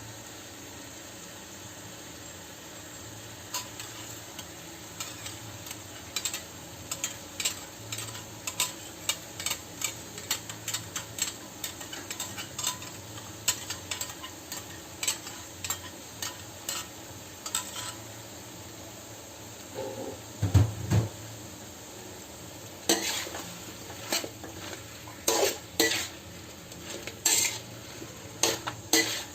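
Chicken and pineapple sizzling in a pan while a cooking utensil stirs them, clanking and scraping against the pan about once or twice a second. A heavier low knock comes about twenty seconds in.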